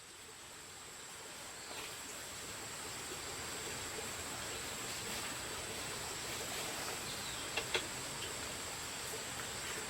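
Steady outdoor background hiss with a thin high steady tone running through it, and two quick sharp clicks about three-quarters of the way through.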